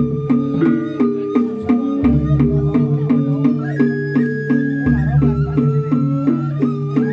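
Balinese gamelan playing: fast, even strikes on bronze metallophones over a deep gong-like tone that swells about every three seconds, with a held high note in the middle.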